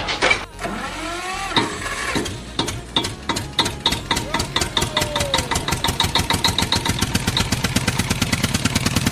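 Engine starting and settling into a chugging run, its beats growing steadily faster, after a few gliding tones near the start.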